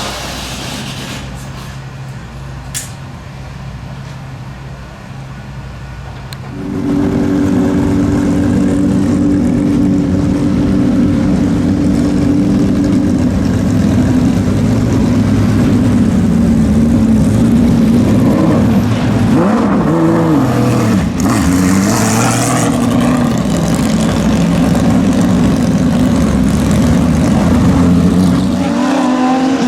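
Porsche 911 GT3-R (997) race car's flat-six engine with open exhaust idling, then about six seconds in the revs rise sharply and hold at a steady, much louder speed, with a few rises and falls in pitch past the middle.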